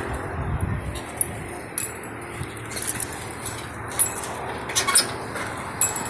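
A vehicle engine rumble dies away about a second in, followed by scattered light clicks and clinks, several sharp ones a second or so apart.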